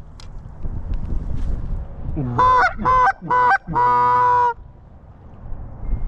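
Canada goose call blown close by: four loud honks in quick succession a little past halfway, each jumping from a low note to a high one, the last held longest. A low rumble of wind runs underneath.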